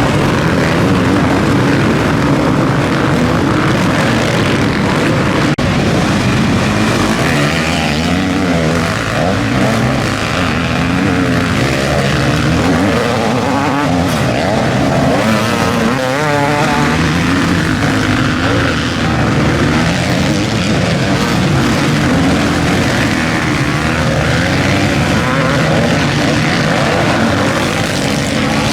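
Several motocross bikes racing, their engines revving up and down in overlapping rising and falling pitches as they accelerate and shift.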